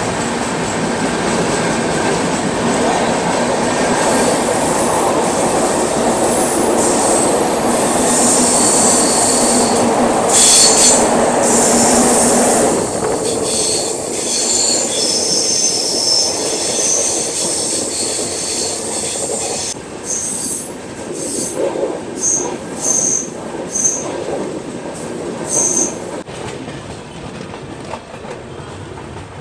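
Passenger train running through a tunnel, with a loud rumble of wheels on rail and high wheel squeals. About halfway through it leaves the tunnel and the rumble drops, leaving short bursts of high-pitched wheel squeal.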